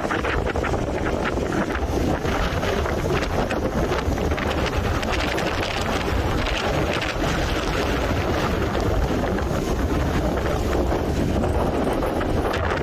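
Hurricane-force wind blowing hard and buffeting the microphone: a steady, loud rush with a deep rumble underneath.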